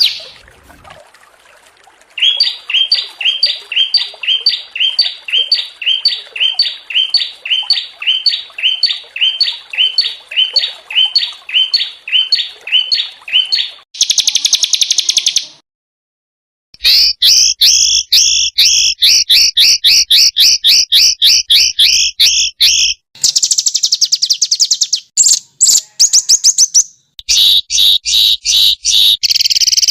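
Small songbirds calling in a spliced sequence of recordings. First comes a steady run of high chirps, about two or three a second, then dense harsh rapid-fire trills. The sequence breaks off abruptly several times, including about a second of dead silence partway through.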